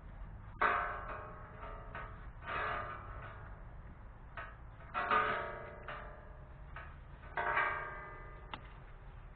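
A metal spanner clinking against the engine four times, about two seconds apart, each strike ringing briefly, as the camshaft position sensor's mounting bolt is loosened.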